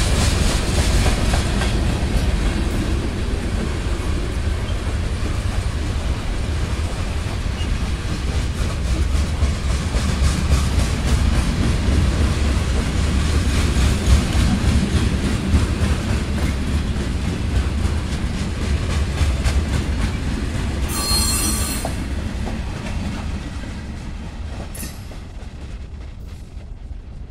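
Freight cars of a Norfolk Southern manifest train rolling past: a steady low rumble of steel wheels on the rail with quick clicking over the joints. A brief high wheel squeal comes about three quarters of the way through, then the sound fades as the end of the train moves away.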